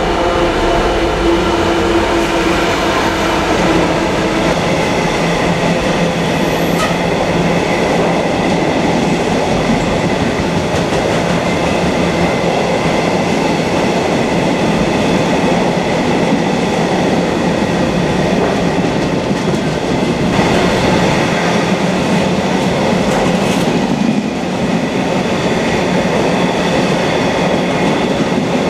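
A DB Class 66 diesel locomotive, with its two-stroke EMD engine, passes close by; its engine drone fades within the first few seconds. A long intermodal container train follows, its wagons rolling steadily past with wheels clattering over the rail joints.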